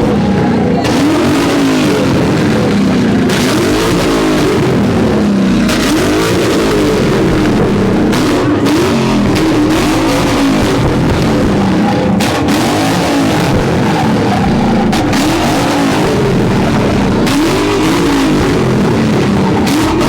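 A car engine is revved hard over and over, its pitch rising and falling every second or two, with sharp exhaust pops and crackles. The car is shooting big flames out of the exhaust.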